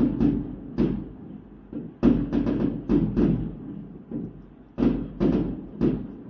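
Fireworks going off in irregular clusters of sharp bangs, each bang with a short tail: a quick run of several bangs about two seconds in and another near the end.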